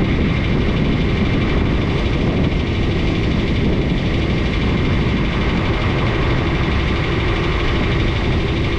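An engine running steadily, with wind rumbling on the microphone.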